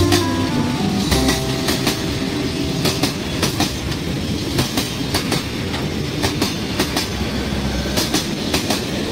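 Freight train boxcars rolling past at speed: a steady rumble of wheels on rail with sharp clickety-clack clicks, often in close pairs, as the wheelsets cross rail joints.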